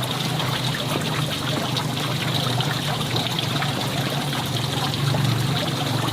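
Water trickling and running steadily, with a continuous low hum underneath.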